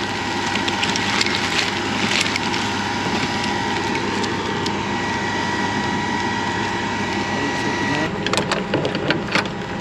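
A machine running steadily with a constant high whine, and a quick series of sharp knocks near the end.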